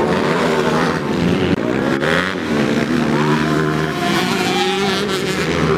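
Several motocross motorcycles racing, their engines revving up and down and overlapping as they run around the dirt circuit.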